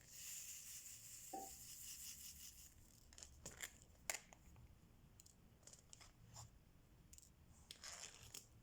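Quiet handling of diamond painting materials: a tearing, crinkling sound for nearly three seconds, then a few light clicks, and a second short crinkle near the end.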